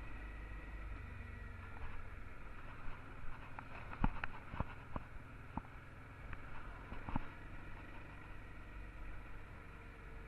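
Honda Transalp XL650's V-twin engine running under way, heard muffled as a steady low hum. A handful of sharp clicks come in the middle.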